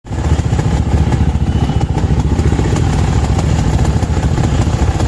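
Off-road dirt bike engine running loud and steady at a fairly constant speed, with no clear revving.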